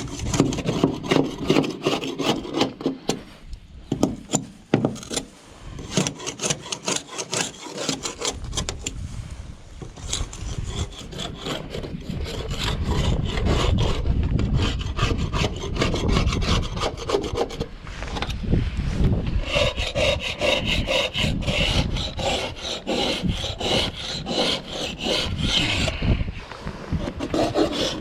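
A scraper working against the boat's hull in repeated rasping strokes, taking off barnacles and old bottom paint. The strokes come close together, giving way partway through to a denser, steadier scraping.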